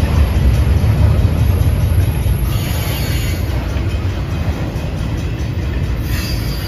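Intermodal freight train's container cars rolling through a railroad crossing: a steady, heavy low rumble of wheels on rail.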